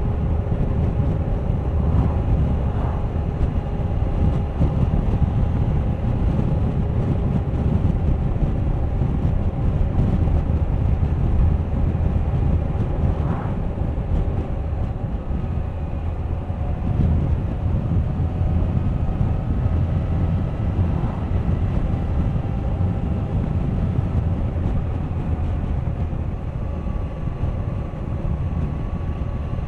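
Suzuki GSX1250FA's inline-four engine running at road speed under heavy wind noise on the microphone. The engine note drifts slowly and rises near the end.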